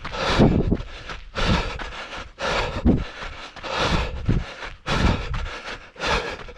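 A trail runner's heavy breathing, one breath about every second.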